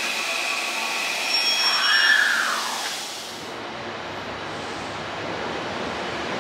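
Hankyu 1000 series electric train running, with high steady whines and, about two seconds in, a brief whine that rises and then falls. About halfway through, the sound changes to a duller, lower rushing train noise.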